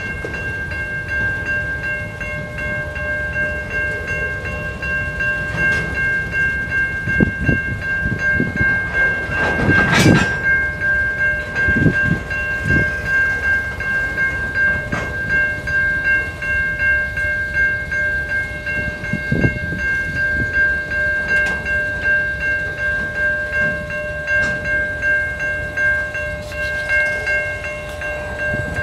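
Freight train boxcars rolling past with a low rumble and wheel clunks over the rails, and one loud clank about ten seconds in. Steady ringing from the level crossing's warning bell carries on throughout.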